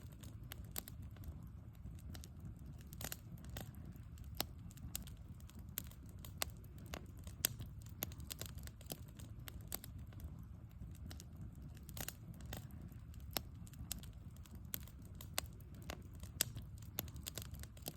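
Wood fire crackling: irregular sharp pops and snaps, often several a second, over a low, steady rumble.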